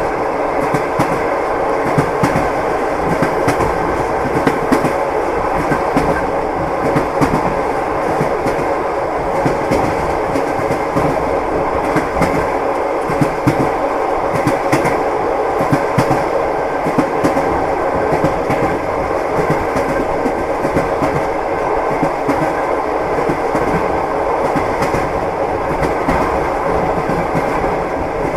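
Moving train's wheels clacking over the rail joints, over a steady rumble of the running train, with many small clicks.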